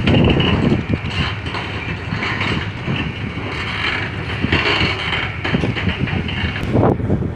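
Steady low mechanical rumble of ship engines during berthing, with wind buffeting the microphone.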